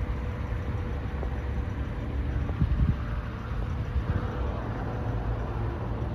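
Steady low rumble of a heavy diesel truck engine idling, with a few small knocks a few seconds in.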